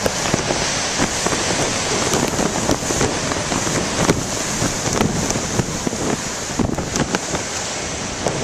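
Heavy ocean surf crashing, mixed with strong wind buffeting the microphone, heard through a plastic bag over the camcorder, with a few brief knocks.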